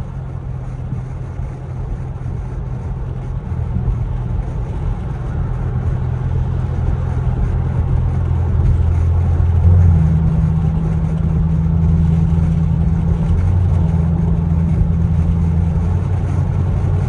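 Camaro SS 6.2 L V8 with a muffler delete, heard inside the cabin while driving: a low exhaust drone that builds over the first ten seconds, then holds steady with a slightly higher tone added. The deep drone and cabin vibration come from the deleted mufflers.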